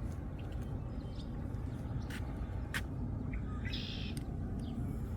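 Several short bird chirps, the clearest a little past the middle, over a steady low rumble.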